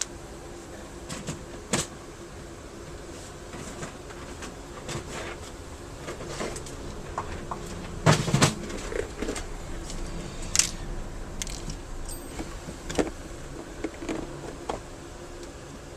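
Small loose metal springs and parts being picked through and handled in a parts box: scattered light clicks and rattles, with a louder cluster about eight seconds in, over a faint steady hum.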